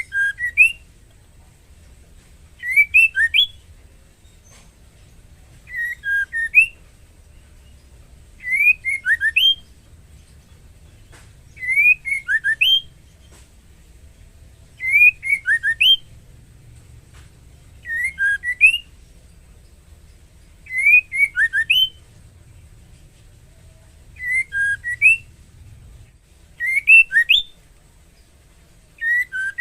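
Female white-rumped shama calling: a short phrase of a few quick, rising whistled notes, repeated about every three seconds. This is the call of a female in breeding condition to a male.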